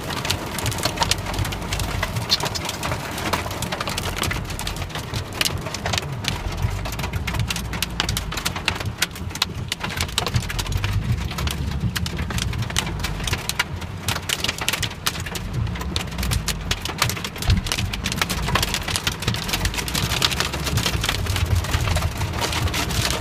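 Heavy downpour: a dense, continuous patter of raindrops hitting hard surfaces, over a steady low rumble.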